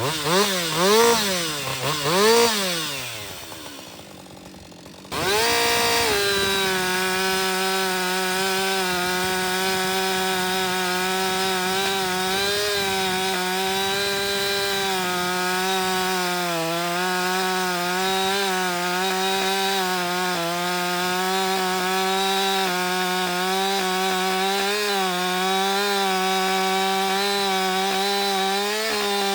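Two-stroke chainsaw revved twice and settling back, then held at full throttle from about five seconds in, its pitch sagging a little under load as it cuts through wood. It is running a hand-filed chain with the rakers lowered to the softwood setting, which the owner finds slow-cutting.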